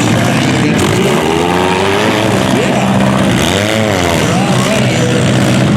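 Demolition derby car engines running loud, with an engine revving up and back down about halfway through.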